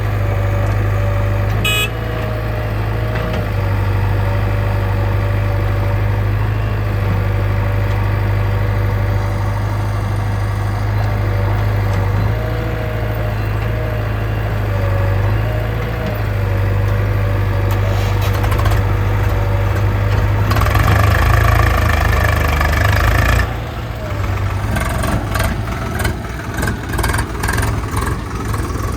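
Heavy diesel machinery engine running steadily. About two-thirds of the way through it works harder for a few seconds, then it drops back with a choppy run of irregular knocks and clatter.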